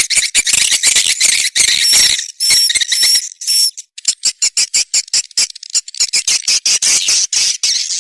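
Swiftlet lure call recording: edible-nest swiftlets chittering in a dense run of fast high chirps and clicks. A few short whistled notes come about two to three and a half seconds in, followed by a rapid train of separate clicks.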